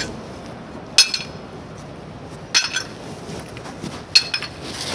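Three sharp metallic strikes with a brief clinking ring, about a second and a half apart: a metal hand tool hitting the fill as the hole is tamped down.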